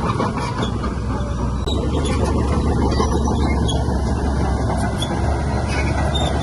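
Heavy diesel earthmoving machinery running steadily, with faint metallic squeaks and clinks scattered through it.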